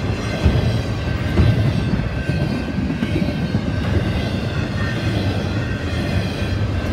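Double-stack container well cars of a long intermodal freight train rolling past close by: a steady rumble of steel wheels on rail with irregular knocks. Faint steady high tones ring above it.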